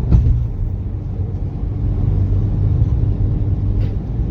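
Audi Q3 2.0 TDI diesel driving at speed, heard from inside the cabin as a steady low engine and road rumble. The engine runs smoothly with no knocking, its damaged cam plate having been replaced.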